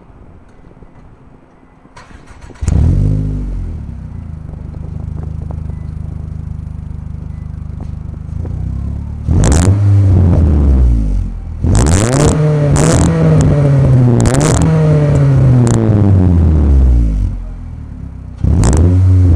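2002 Nissan Altima 2.5S four-cylinder engine breathing through a full aftermarket exhaust and race header: it starts a few seconds in, idles steadily, then is revved several times, the pitch climbing and falling, with a long held rev in the middle and another rev near the end.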